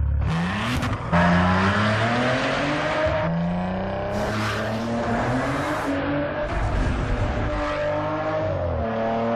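Maserati Ghibli sedan's engine revving hard through the gears. Its pitch climbs and drops back at each shift, with a few bursts of rushing noise as the car speeds past.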